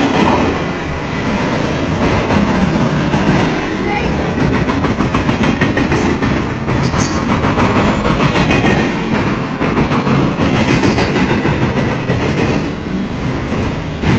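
Train of flatcars loaded with truck trailers rolling past at speed: a loud, steady rumble of steel wheels on rail with rapid clicking as the wheels pass over rail joints.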